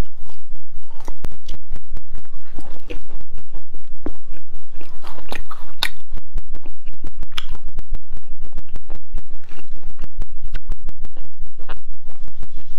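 Close-miked chewing and biting of chewy, gelatinous spicy beef-skin strips with enoki mushrooms, with wet mouth clicks and crunches.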